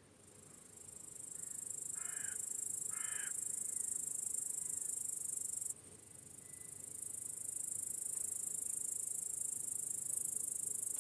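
A loud, high-pitched insect buzz swells up over a couple of seconds, stops suddenly just before the middle, then swells again and stops suddenly near the end. A bird gives two short caws about two and three seconds in, over faint crickets chirping.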